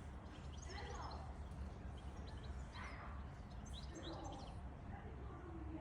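Short, high animal chirps and calls come and go over a steady low rumble.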